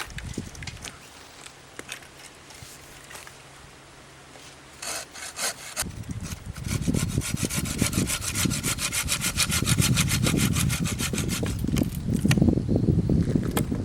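Hand saw cutting firewood: a few light knocks, then from about halfway in a steady run of quick back-and-forth saw strokes.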